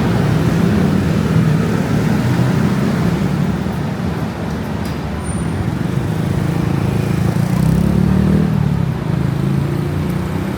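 Steady city road traffic: engines of passing cars, swelling slightly now and then.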